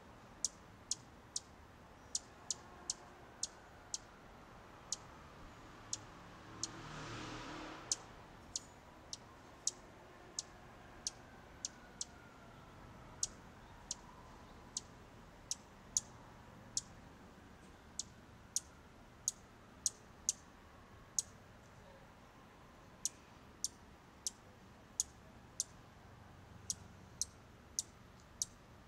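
Sharp, high chip notes from a small bird, repeated at irregular intervals of about one or two a second. A brief rush of noise comes about seven seconds in.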